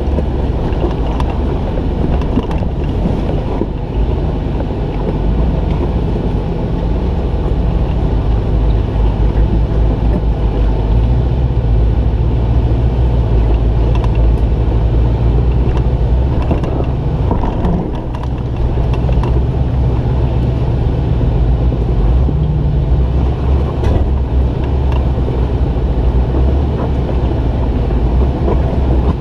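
Jeep engine running steadily, a low rumble whose pitch rises and falls a little with the throttle. Wind buffets the microphone, and there are a few short knocks.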